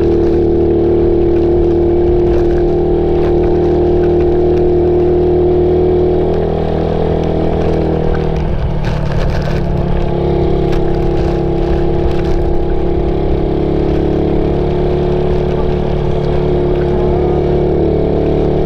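Suzuki Raider 150 motorcycle engine running under way at a steady speed. Its note dips and shifts to a new pitch about six seconds in, then holds steady again.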